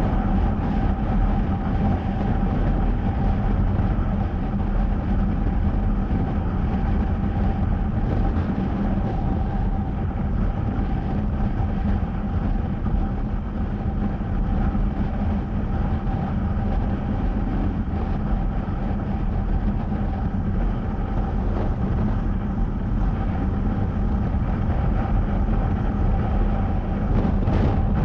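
Honda CBR250R's single-cylinder engine running at a steady cruising speed, a constant drone that holds one pitch throughout, with no revving or gear changes.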